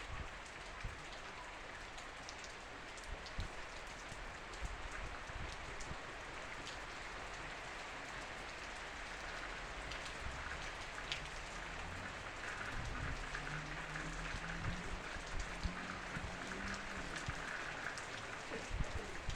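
Heavy rain falling steadily, an even hiss with patter of drops striking surfaces. A faint low hum joins it for several seconds in the second half.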